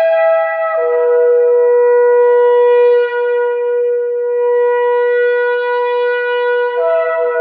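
Shofar (ram's horn) blowing a long sustained blast. The note drops in pitch in a step about a second in, is held low and steady, and jumps back up to a higher note near the end.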